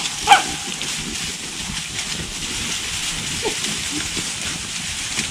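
A single short beagle yip about a third of a second in, then a steady crackling rustle.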